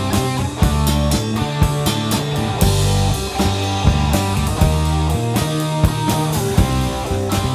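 Rock band playing an instrumental passage between sung verses: guitar and bass over a steady drum-kit beat.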